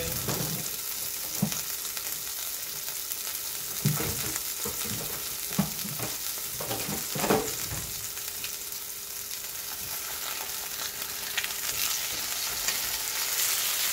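Chicken breasts frying in oil in a nonstick pan, a steady sizzling hiss. A few short knocks are heard in the first half.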